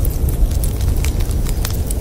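Wood fire crackling, with irregular sharp pops, over the steady low rumble of blizzard wind outside.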